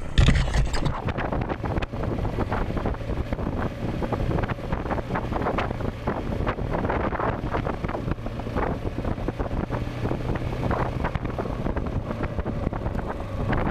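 Dual-sport motorcycle engine running under way, with wind rushing over the microphone. There is a loud low burst right at the start, then a steady engine note and many short knocks.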